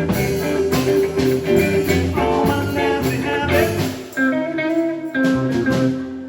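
Band music in a blues style, led by guitar over bass and drums. About four seconds in, the regular drum strokes mostly drop away, leaving held guitar notes.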